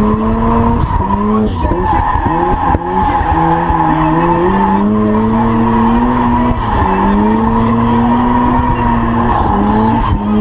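A drift car's engine held high in the revs, its pitch rising and dipping every second or two with the throttle, over a continuous tire squeal as the car slides.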